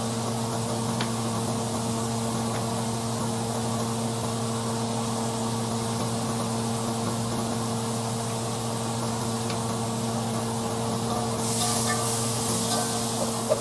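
Food sizzling in a cooking pan over a steady appliance hum, with a louder burst of hissing about eleven seconds in that lasts a second or two.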